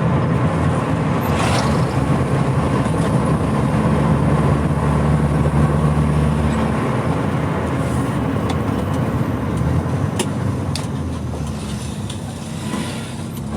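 Engine and road noise of the moving vehicle being driven through the streets. The engine's hum grows stronger a few seconds in and eases off after about seven seconds.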